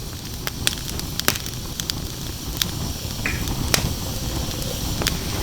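Wood fire burning in a fire pit, crackling with sharp irregular pops over a low steady rumble.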